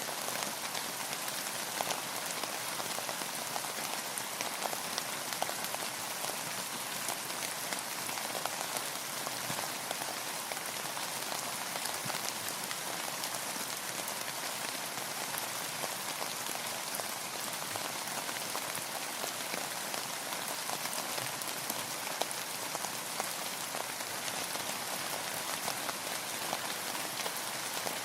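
Steady rain falling, an even patter of many small drops on a hard surface.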